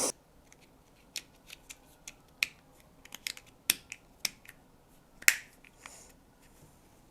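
Scattered light clicks and ticks, with a brief scrape about five seconds in, from hands working a plastic kayak carry handle and its cord.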